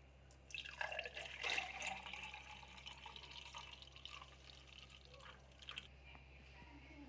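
Juice being poured into a glass, splashing and gurgling. It starts about half a second in, is loudest for the first two seconds, then trails off into trickling.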